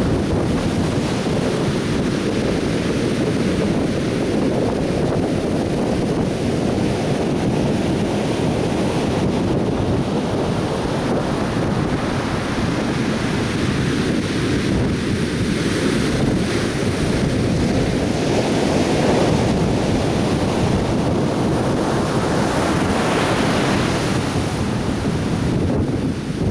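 Atlantic Ocean surf breaking and washing onto a beach, a steady churning rush that swells and eases, with wind buffeting the microphone.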